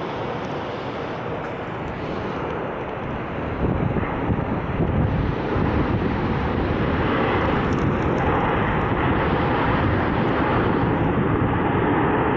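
Airliner's jet engines, a steady rushing noise that grows louder about three and a half seconds in and then stays loud.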